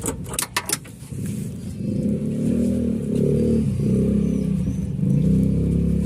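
A few sharp clacks in the first second, then a motor-vehicle engine running with its pitch rising and falling a little.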